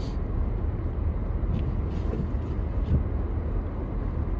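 Steady low rumble of a car driving over a snowy, icy road, its tyres and engine running evenly.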